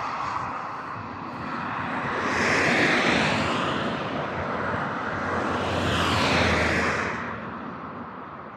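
Passenger train hauled by a Romanian class 060-DA diesel-electric locomotive going past, its wheels rolling on the rails in two swells of noise about three seconds apart, with a low engine hum under the second, then fading away.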